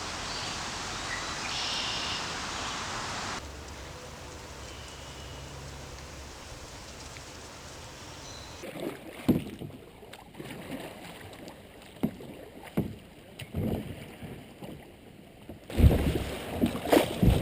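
Kayak being paddled: after a stretch of steady noise, the paddle blades dip and splash in the river in irregular strokes from about the middle on.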